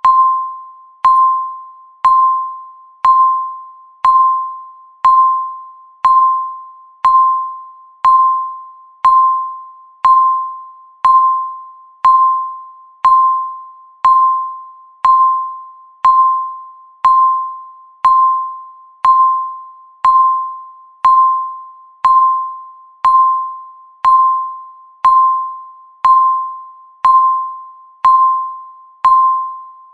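Countdown timer's electronic tick: one bright, bell-like ding per second, each starting sharply and fading away before the next.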